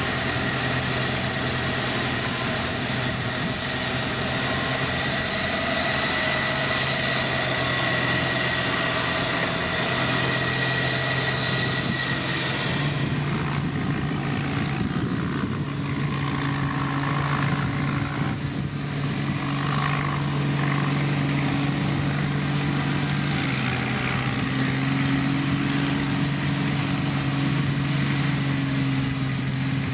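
Heavy diesel engine of road construction machinery running steadily, with a high whine and hiss over it that cut out suddenly about 13 seconds in, leaving a deeper steady engine note.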